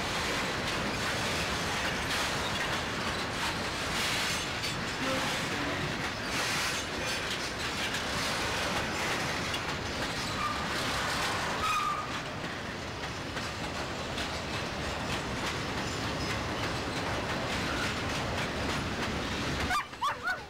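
A train rolling past: the steady rumble of railcars with clicks of wheels over rail joints, and a couple of brief wheel squeals about halfway. The sound cuts off suddenly about a second before the end.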